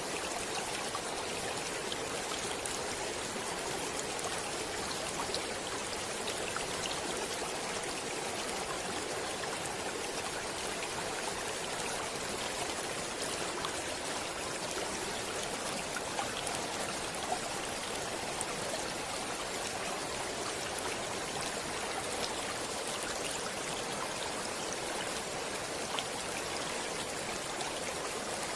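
Stream water flowing steadily, a continuous rush with small splashes and drips scattered through it.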